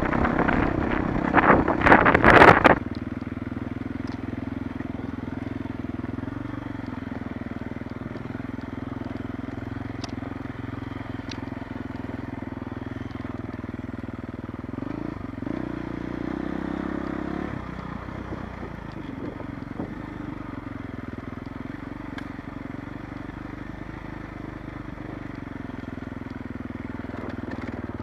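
Off-road motorcycle engine running at low, fairly steady revs, shifting pitch briefly about fifteen seconds in. A loud, rough rushing and rattling noise covers the first three seconds, then stops.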